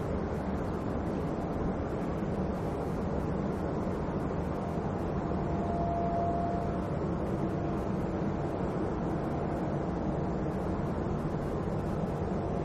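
Jet airliner engines running at an airport: a steady rumble with a faint whine that swells for a second or two about halfway through.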